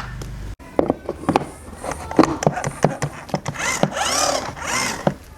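Tool work: a quick run of clicks and knocks, then two longer sweeping passes near the end.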